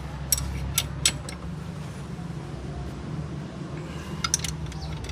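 Metal hand tools, spanners and sockets, clinking and clicking against each other and the engine: a few sharp clinks in the first second and a half and another group about four seconds in, over a steady low hum.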